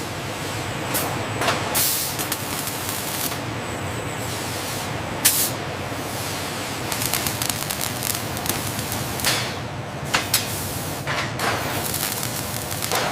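Steady industrial machinery running, with repeated short sharp hisses of air and knocks breaking in every second or few.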